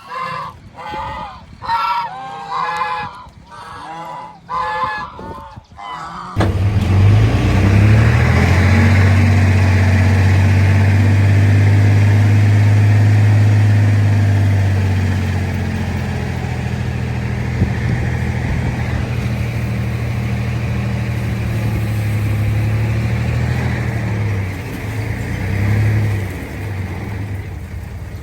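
Geese honking in a quick series of calls, then, after an abrupt cut about six seconds in, a heavy diesel engine of earth-moving machinery running loud and steady, easing off a little about halfway through.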